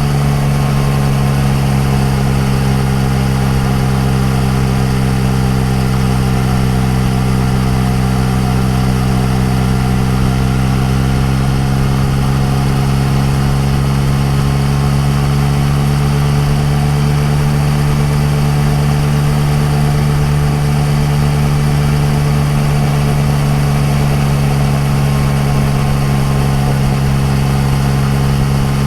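Yamaha MT-09 Tracer's inline-three engine breathing through an Akrapovic exhaust, pulling at a steady cruising speed. Its note sags slightly in pitch around the middle and then settles back.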